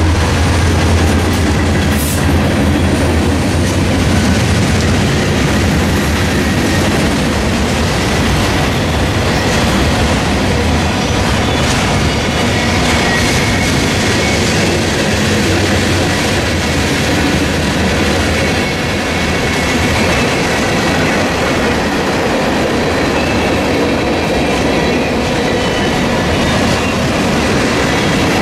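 Norfolk Southern diesel freight train passing close by. The locomotive's engine drones for the first several seconds, then the freight cars roll past with a steady rumble of wheels on rail. A faint high wheel squeal comes in around the middle.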